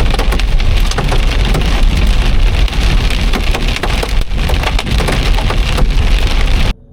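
Heavy rain pounding on a car's roof and windshield, a dense patter of drops, which cuts off suddenly near the end.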